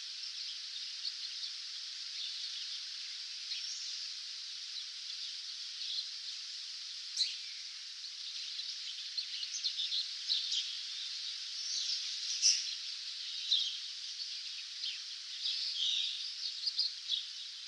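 Several songbirds chirping and singing in a dawn chorus, short calls and trills coming thick and fast in the second half, over a steady hiss.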